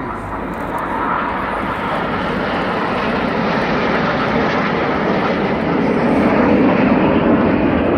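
Formation of BAE Hawk T1 jet trainers flying past, their jet engine noise growing steadily louder and peaking near the end.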